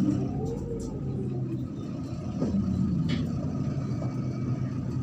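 Cabin sound of a MAZ-103 city bus under way: the diesel engine drones steadily under the rumble of the ride, its note shifting in the first second. There is a short knock or rattle about three seconds in.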